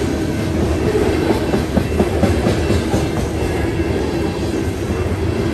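Covered hopper cars of a BNSF grain train rolling past: a steady rumble of steel wheels on the rails with a clickety-clack of wheels over rail joints, and a cluster of sharper clicks about two seconds in.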